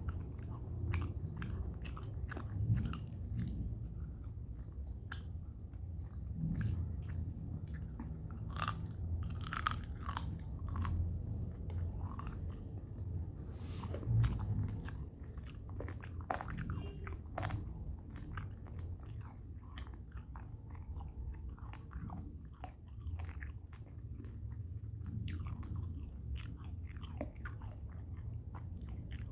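A person chewing and biting a mouthful of rice and chicken close to the microphone, with irregular wet crunches and smacks over a steady low hum.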